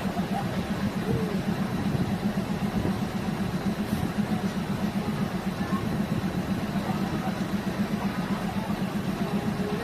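Diesel multiple unit's engine running steadily with a rapid, even throb; faint voices in the background.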